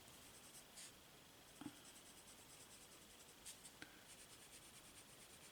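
Faint, rhythmic scratching of a watercolour pencil colouring in stamped leaves on cardstock, with a few light ticks and taps.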